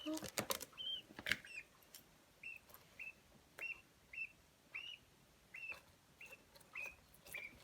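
Budgerigar chicks cheeping faintly: a string of short, high chirps, about two a second, with a few light clicks and taps in the first second or so.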